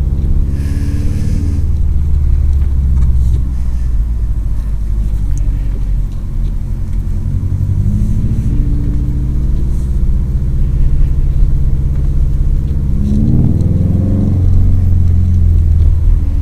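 Subaru WRX STi's turbocharged flat-four engine pulling the car through snow, heard from inside the cabin. The revs climb about eight seconds in and again more sharply near thirteen seconds, with a brief hiss right near the start.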